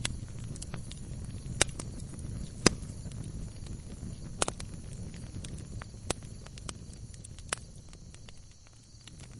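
Logs burning in a fireplace and crackling: a low, steady rush of flame with scattered sharp pops, the two loudest about one and a half and two and a half seconds in. The rush dies down briefly near the end.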